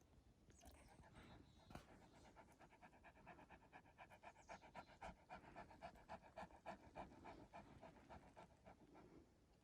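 A dog panting fast and rhythmically, starting about half a second in and stopping near the end.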